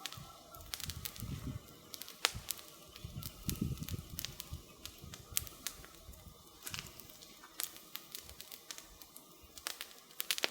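Wood campfire crackling, with irregular sharp pops and snaps throughout over a low, uneven rumble of the burning fire that swells about a second in and again around three to four seconds in.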